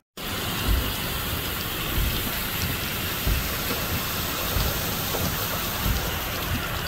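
Steady hiss of heavy rain and running floodwater, with brief low thumps scattered through it.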